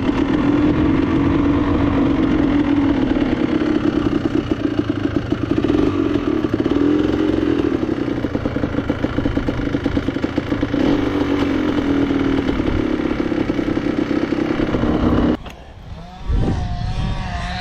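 Enduro motorcycle engine running under way, its pitch rising and falling with the throttle, then stopping suddenly near the end; a knock follows.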